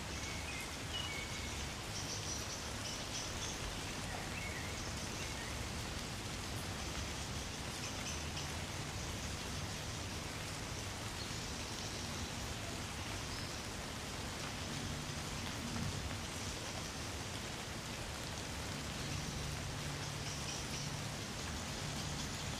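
Gentle rain falling steadily, a soft, even patter of drops.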